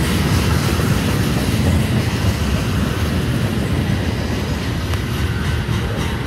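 Freight train cars, tank cars and centerbeam flatcars loaded with lumber, rolling past close by: a steady, loud rumble of steel wheels on rail.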